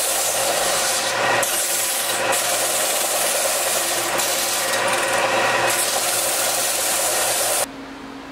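A loud, steady rasping noise with a faint low hum under it, cutting off suddenly near the end.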